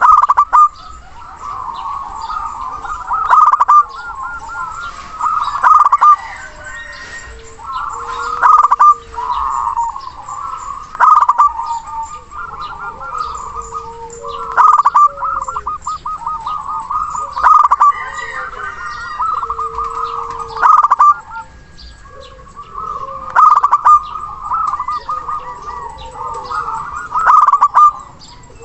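Zebra doves (perkutut) calling in repeated bouts of rapid rolling coos, each a second or two long and coming every few seconds, with shorter, lower coos between them and faint high chirps of other small birds.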